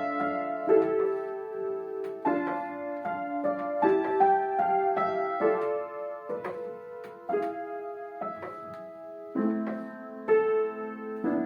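Piano playing a slow piece, chords struck about once a second and left to ring.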